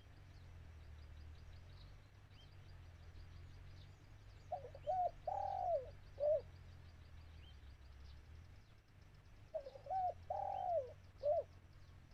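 Spotted dove cooing twice, about five seconds apart. Each phrase is a few short coos around one longer, drawn-out coo. Faint high chirping runs underneath, with a steady low rumble.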